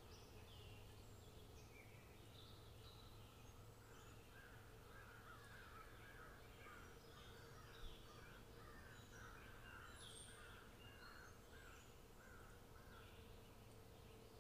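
Faint birds chirping in the background, with a quick run of repeated calls through the middle.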